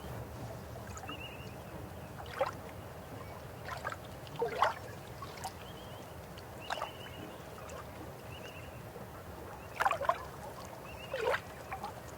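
A river or stream flowing as a steady low rush. Sharp water plops and gurgles that drop in pitch come every second or two, with a few short high chirps between them.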